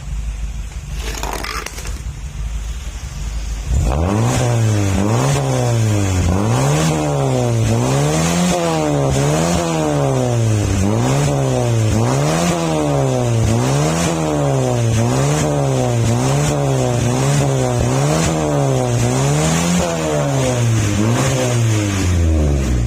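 Honda Accord engine running through an aftermarket racing exhaust: idling, then revved up and down over and over, about once a second, before dropping back to idle near the end.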